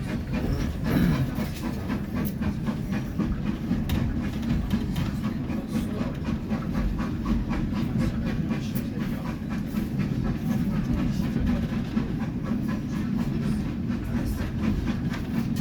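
Riding inside a steam-hauled heritage railway carriage under way: a steady rumble of the wheels on the track, with irregular clicks from the rail joints.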